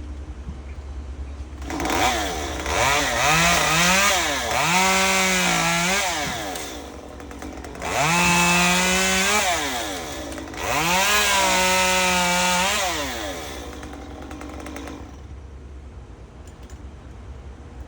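Two-stroke chainsaw revved up to high speed and held there three times, dropping back between each spell, over a steady low hum.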